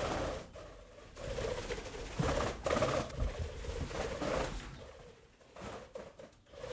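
Birds calling, in low-pitched phrases that come and go, fading near the end.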